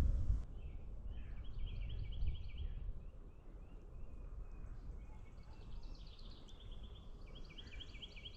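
A bird sings a rapid trilled song three times, each bout lasting one to two seconds, over a low rumble of wind and movement.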